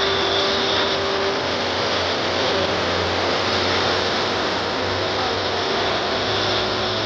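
North American Rockwell OV-10 Bronco's twin turboprop engines running steadily in flight: a broad, even rush of engine noise with a faint high whine.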